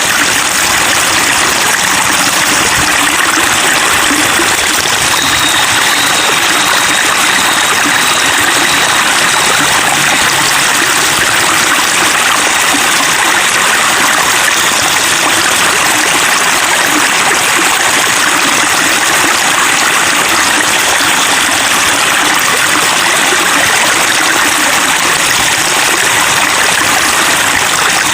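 Water trickling and flowing steadily, a continuous babble of running water.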